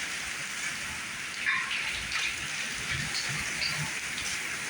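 Heavy rain pouring down steadily, an even hiss of drops on pavement and cars.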